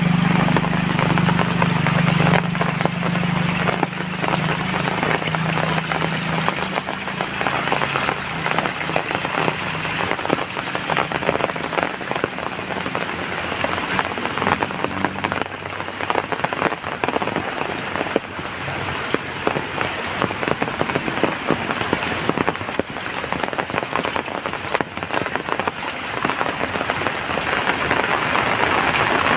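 Heavy rain falling steadily, dense drops striking hard surfaces. A low hum, strongest at the start, fades out over the first half.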